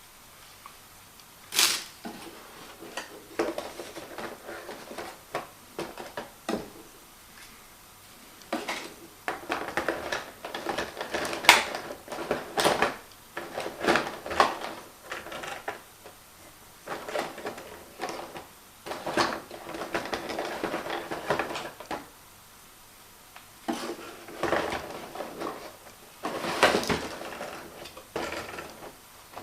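Hard plastic parts and packaging being handled: irregular clicks, knocks and rustling, with a few sharper clacks.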